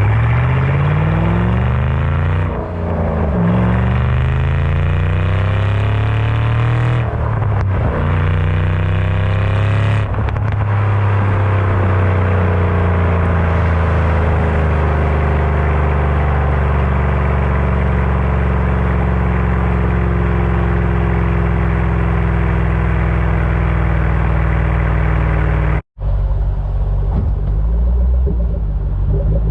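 Shelby GT500's supercharged V8 through a Borla ATAK exhaust, accelerating through the gears: the pitch climbs, drops back at each upshift about two and a half and seven and a half seconds in, then climbs again. From about ten seconds in it eases off into a long, slowly falling drone. Near the end it breaks off suddenly, and a lower, steadier engine sound follows.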